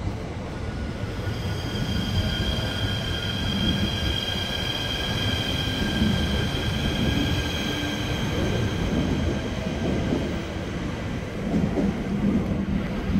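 An ITX-Maum electric multiple-unit train pulls out of the platform and rolls past, with a continuous rumble of wheels on the track. A high whine made of several steady tones sounds over it from about a second in and fades after about ten seconds.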